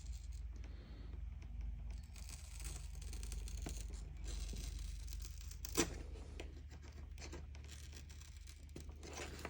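Razor blade scraping and peeling old LCD polarizing film and its crystallized adhesive off the display glass under firm pressure, an uneven scratchy tearing, with one sharp click about six seconds in. The film is decayed by vinegar syndrome, its adhesive crystallized.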